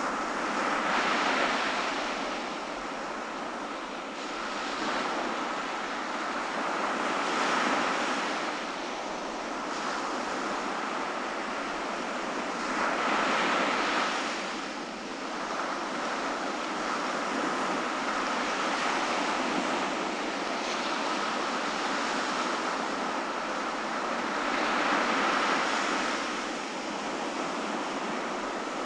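Ocean surf on a beach: a steady wash of water, with waves breaking and swelling louder about four times, several seconds apart.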